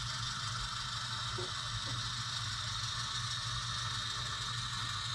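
HO-scale model locomotive running slowly as it shoves a cut of cars, its motor and gears giving a steady mechanical running sound with a couple of faint ticks.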